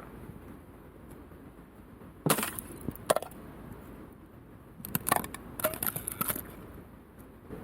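Wood being broken up, likely firewood or kindling, with sharp cracks and snaps. There is a loud snap about two seconds in and another a second later, then a quick run of several more near the end.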